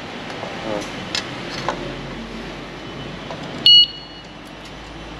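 Alarm disc lock on a motorcycle brake disc giving one short, loud electronic beep about three and a half seconds in, after a few light clicks from handling the lock.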